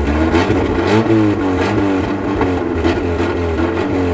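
Toyota AE86 Corolla's four-cylinder engine being revved in several quick blips, pitch rising and falling each time.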